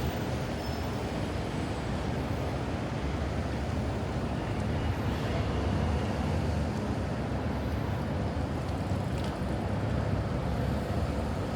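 Steady low rumble of city street ambience: passing traffic, with a few faint ticks.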